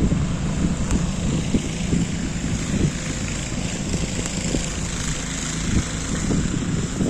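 Wind buffeting the microphone in a snowstorm: an uneven low rumble that rises and falls in gusts, over a steady hiss.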